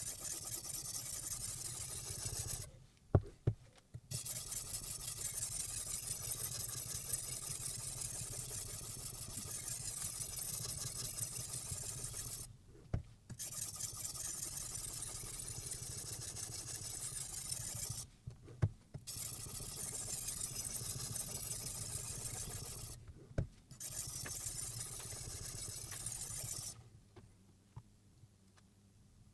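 Silicon carbide water stone scraping steadily along a knife edge on a guided sharpening system, in long stretches broken by short pauses with a few sharp clicks, stopping near the end.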